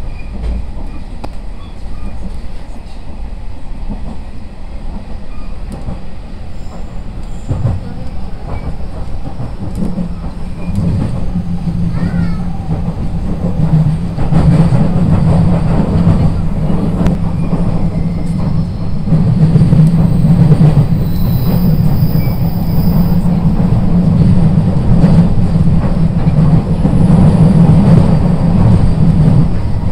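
SAT721-series electric train running, heard from inside the car: a steady low rumble of wheels on rail with frequent light clicks. It gets louder over the first half and then holds.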